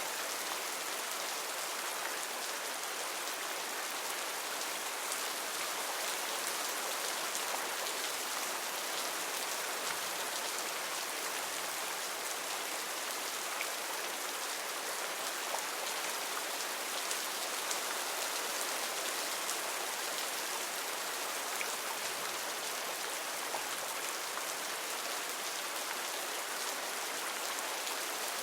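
Heavy rain falling steadily on rainforest foliage, a dense even hiss with scattered individual drop ticks.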